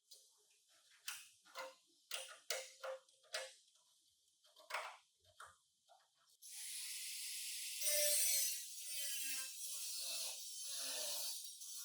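Workshop tool sounds: a run of separate ratchet-like clicks, then about six seconds in a power tool starts, spinning up and running with a loud, steady hiss.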